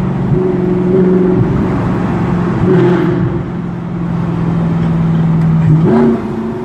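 Audi R8 with an aftermarket Tubi exhaust running loud, its engine note held fairly steady with small swells, then a quick rise in revs near the end.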